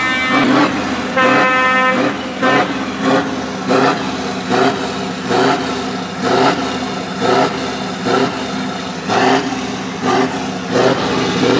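Truck air horns: a long horn blast near the start, then a series of short honks repeating about once a second.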